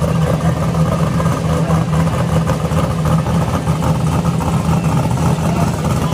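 Drag car engine idling loudly and steadily.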